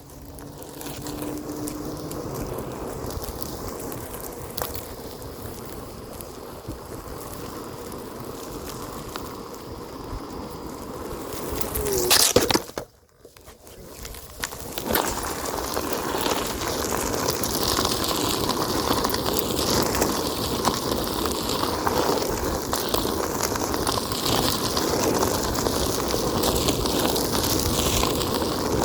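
Onewheel electric board rolling along a forest trail: steady tyre and rolling noise with a faint steady hum. About halfway through the sound swells, cuts out almost completely for a second or two, then returns as louder, rougher rolling noise.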